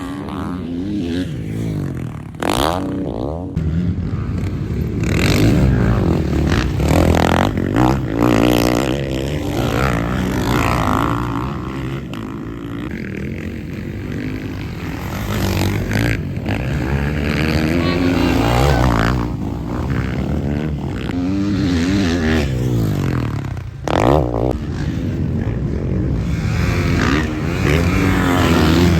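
MX1-class motocross bikes racing, engines revving up and down as riders open and close the throttle, sometimes several at once. The sound breaks off abruptly a few times.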